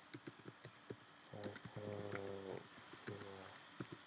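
Computer keyboard typing: irregular, quick keystroke clicks. A low, steady hum comes in twice in the middle, the longer one about a second and a half in.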